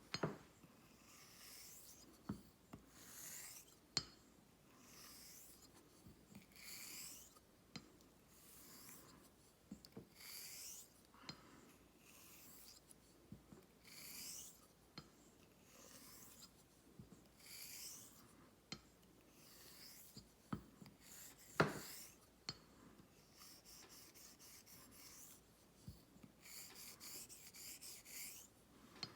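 Vintage hollow-ground straight razor drawn across a wet whetstone in repeated honing strokes, each a soft hiss of steel on stone, about one every second and a half. Sharp taps fall between strokes, the loudest about two-thirds through, and near the end come two runs of quick, short strokes.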